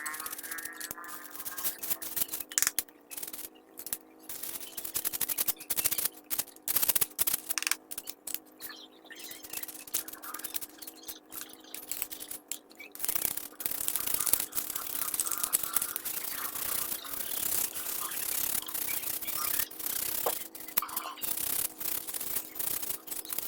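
Hand-cleaning a car vacuum cleaner's filter: irregular scrubbing and rubbing strokes on the filter, coming in short runs with brief pauses, over a faint steady hum.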